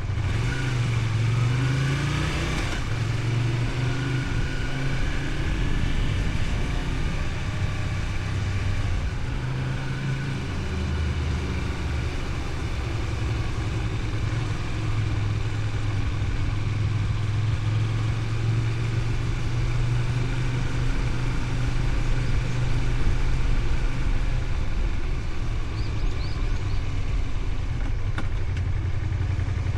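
Honda VTR250's V-twin engine running under way on the road. It rises in pitch in the first few seconds and shifts a few more times, then settles into a steady cruise.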